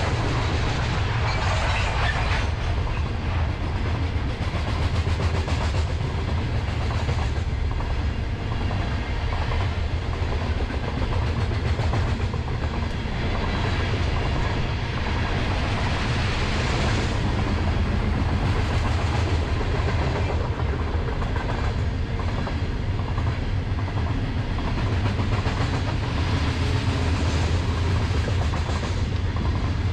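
Freight train of open-top hopper cars rolling past: a steady rumble of steel wheels on rail with a running clickety-clack of wheels over rail joints.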